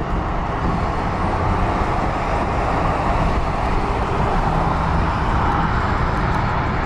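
Dodge Charger Scat Pack's 6.4-litre 392 HEMI V8 running at a steady, even drone, with road noise.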